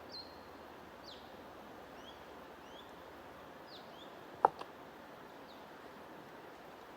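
Small birds chirping with short, scattered calls over a steady even hiss. A sharp click about four and a half seconds in, followed by a fainter one, is the loudest sound.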